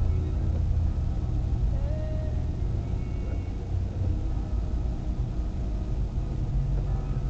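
A car being driven on a snowy road, heard from inside the cabin: a steady low rumble of engine and tyres.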